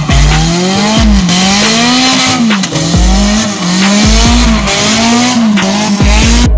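Toyota DX's 4A-GE 20-valve four-cylinder engine revving hard while drifting: the pitch climbs and falls back about once a second as the throttle is worked, over tyre squeal and deep low thumps.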